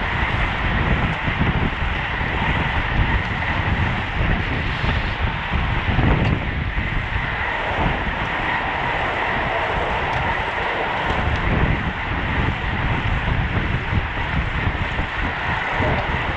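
Wind rushing over the microphone of a bicycle-mounted camera at road-race speed: a steady rush with a gusting low rumble beneath.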